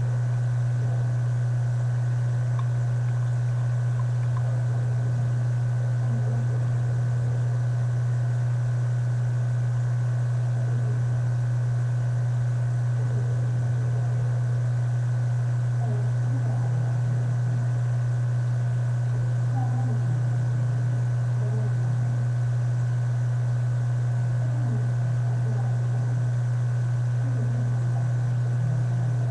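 A steady low hum that never changes, with faint scattered small rustles above it.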